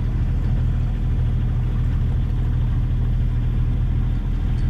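A sailing yacht's inboard engine running steadily, pushing the boat along under power with no wind for the sails; a constant low drone.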